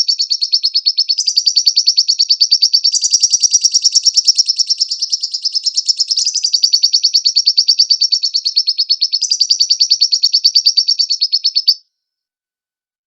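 Lovebird singing a long, fast chattering trill of rapidly repeated high notes, shifting in pitch every few seconds. It cuts off suddenly near the end.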